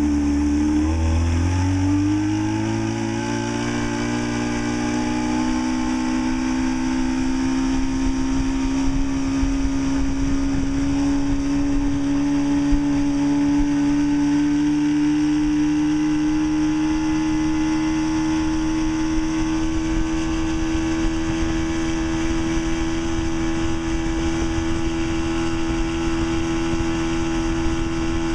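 Force 40 hp two-stroke outboard motor running under way. Its pitch climbs over the first few seconds as it throttles up, then holds a steady drone that creeps slightly higher, with a low rumble underneath.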